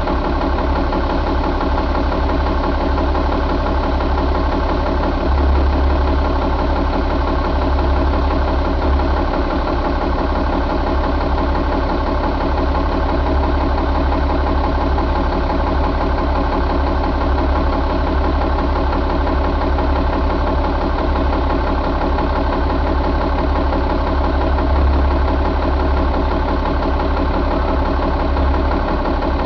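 A 2003 Caterpillar C12 inline-six diesel engine idling steadily at an even speed.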